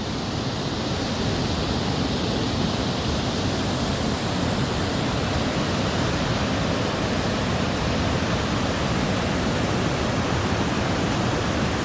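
Palouse Falls, a large waterfall, rushing steadily close by: an even, unbroken noise heavy in the low end.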